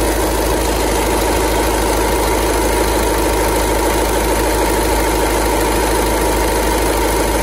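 A Skoda Superb's 2.0 TDI four-cylinder diesel (engine CFFB) idling steadily, filmed close to its auxiliary belt drive. The belt runs on a newly fitted tensioner, and the strange noise it was replaced for is gone.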